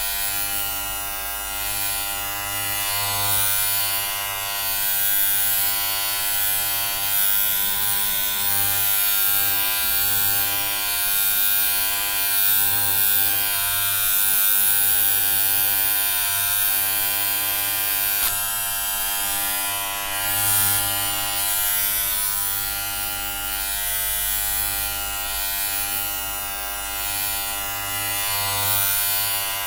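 Electric hair clippers buzzing steadily without a break, a dense even buzz that swells and eases slightly in loudness.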